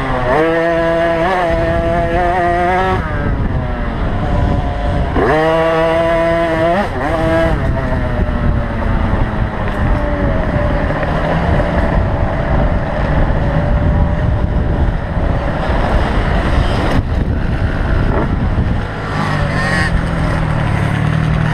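Small 50cc two-stroke motocross bike engines racing: an engine revs up and holds high twice in the first seven seconds, then several engines run together in a steady, blurred drone.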